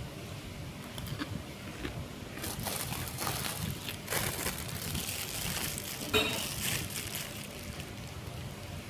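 A person chewing a mouthful of gado-gado, with crunchy crackling bites through the middle and a sharp clink about six seconds in.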